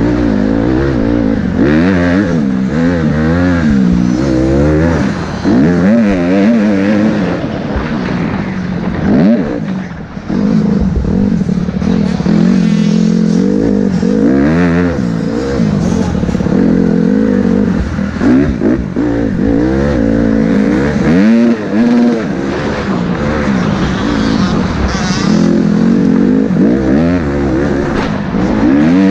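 Motocross dirt bike engine revving up and down over and over as it is ridden, its pitch climbing and dropping every second or two, with a brief lull about ten seconds in.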